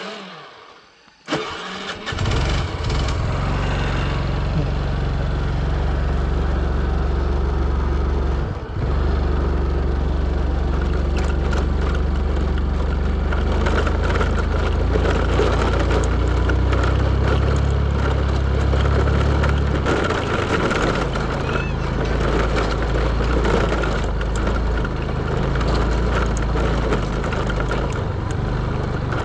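A vehicle engine starts about a second in and keeps running loudly and steadily. It dips briefly about a third of the way through, and its pitch shifts again later.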